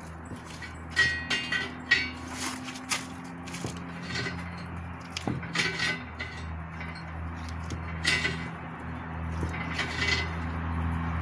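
Scattered light metallic clinks and taps, a dozen or so spread unevenly, over a steady low hum.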